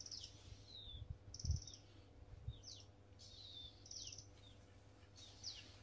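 Birds calling: repeated short falling whistles and quick trilled chirps, with a few low thumps about a second and a half in.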